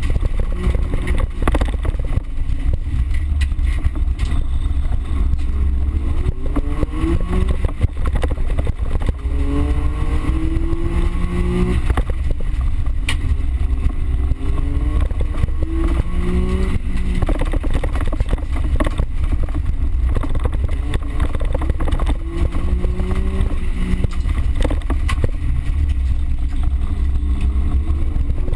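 Small car's engine inside the cabin, driven hard on a dirt course. The pitch climbs and drops back several times as it revs through the gears, over a constant low rumble of tyres and body on rough ground, with scattered knocks.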